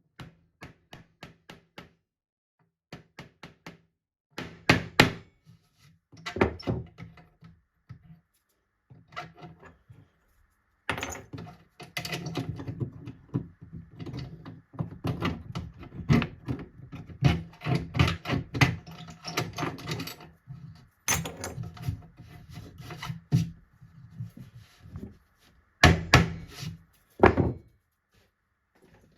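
Irregular knocks, taps and thumps of wood being handled and worked on, with a dense run of quick knocking through the middle and a few louder thumps near the start and near the end.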